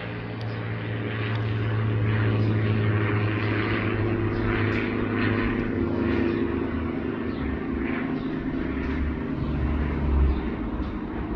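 Propeller airplane engine running with a steady low drone, growing louder over the first couple of seconds and then holding.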